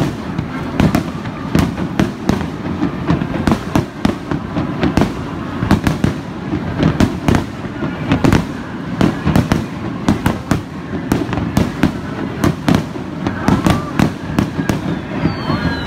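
Aerial firework shells bursting in rapid succession, with many overlapping bangs and crackles each second. A falling whistle near the end.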